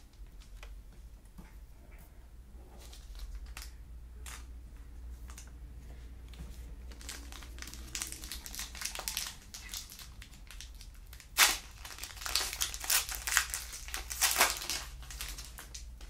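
Foil wrapper of a trading card pack crinkling and tearing as it is opened. It comes in scattered bursts from about seven seconds in, with a sharp rip about eleven seconds in and dense crinkling after it.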